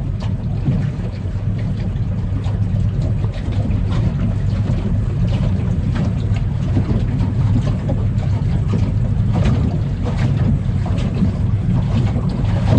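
Engine idling with a steady low drone, the engine described as not well but not dead, under an oil pressure test.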